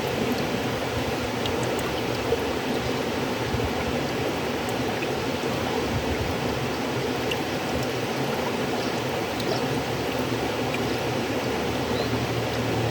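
River water flowing steadily, an even rushing sound with scattered small ticks; a low hum comes in near the end.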